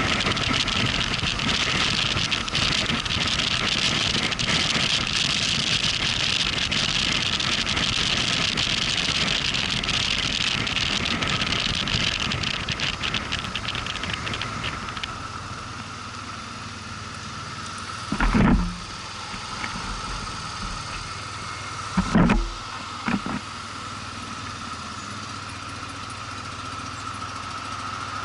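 Motorcycle riding at speed with loud wind and road noise, which falls away about halfway through as the bike slows to a quieter, steady running sound. Two short, loud thumps come later, one about two-thirds of the way in and another a few seconds after.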